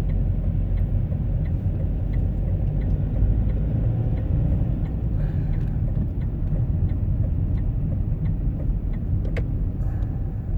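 Car interior road and engine noise while driving, a steady low rumble, with a light regular ticking about twice a second and one sharper click near the end.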